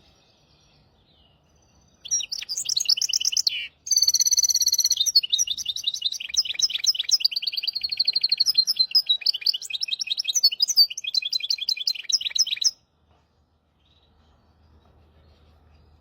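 Goldfinch × canary hybrid singing a long, rapid twittering song of fast trills and chirps. It starts about two seconds in, breaks off briefly near four seconds, and stops a few seconds before the end.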